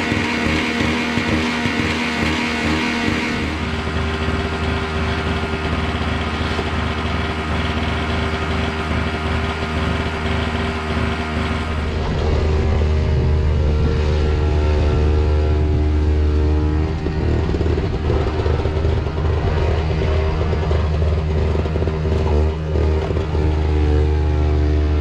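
MTD snow blower's small engine running steadily; its sound grows louder about halfway through.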